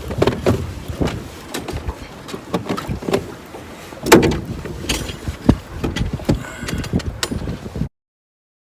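Irregular knocks and thumps aboard a small fishing boat, with wind on the microphone, the loudest knock about four seconds in; the sound cuts off suddenly near the end.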